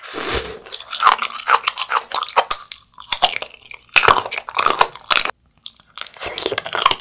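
Crunchy chewing and biting of sea grapes in chili sauce, then bites and chewing of grilled abalone, in several runs of chewing with short pauses between them.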